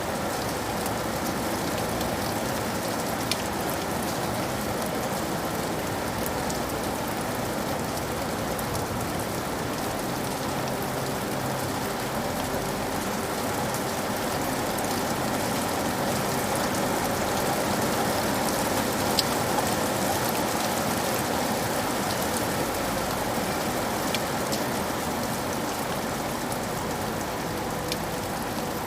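Steady rain falling, a continuous even hiss with scattered individual drops ticking sharply now and then.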